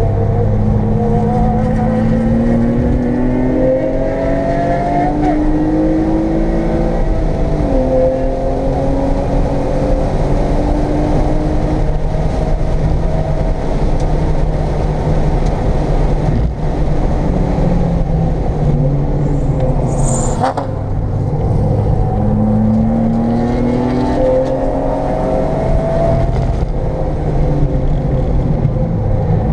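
1995 BMW M3's inline-six engine heard from inside the cabin under hard track driving, pitch climbing through the gears with a drop at each upshift, then holding high revs. Near the middle the revs fall away, with a quick rise and fall and a brief sharp click about two-thirds through, before the engine pulls up through the gears again.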